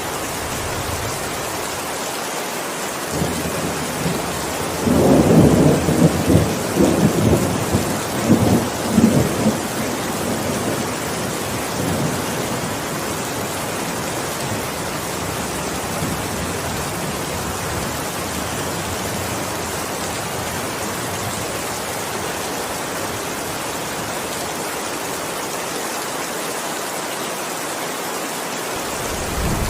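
Steady heavy rain with a roll of thunder rumbling about five seconds in and dying away over the next five seconds, then rain alone.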